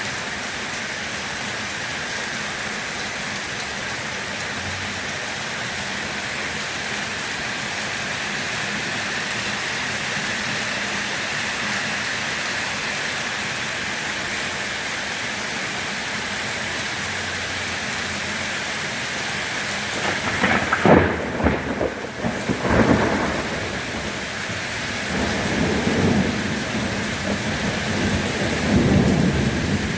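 Steady rain falling. About two-thirds of the way in a sharp crack of thunder breaks in, followed near the end by low rolling thunder.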